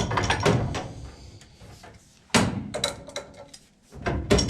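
Clattering knocks of hard objects being handled: a burst near the start, a sharp hit a little past halfway, and more knocks near the end.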